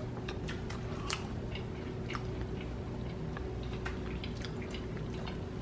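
Close-up chewing of crispy fried chicken strips: faint, irregular crunches and mouth clicks over a steady faint hum.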